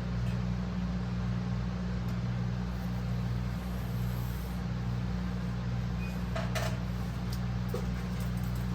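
Steady low mechanical hum, with a few faint clicks about six and a half seconds in.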